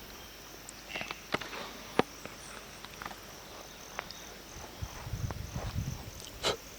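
An insect's high, evenly pulsing trill runs steadily under scattered sharp clicks and knocks, with the loudest click about two seconds in and another near the end. A low rumble comes in for about a second past the middle.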